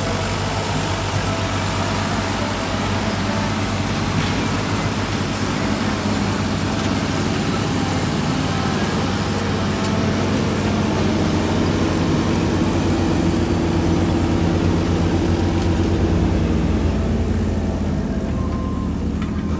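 Ford tractor diesel engine running steadily, growing a little louder in the second half, its low note shifting near the end.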